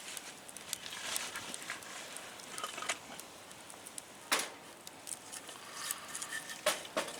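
Wood campfire crackling, with scattered small pops and a couple of louder snaps about four seconds in and near the end.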